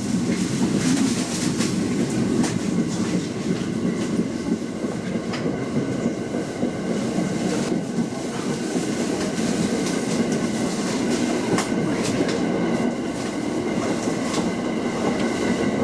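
Local passenger train running along the track, heard from on board: a steady rumble of wheels on rail, with irregular clicks as the wheels pass rail joints and a few faint steady high tones.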